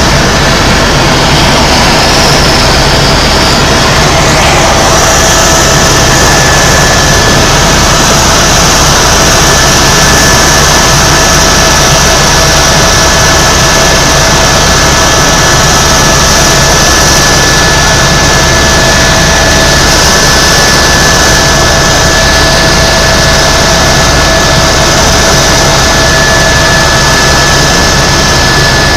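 Tour helicopter in steady flight, heard from inside the cabin: the turbine engine and rotor make a loud, unchanging drone with a low rumble and a constant high whine.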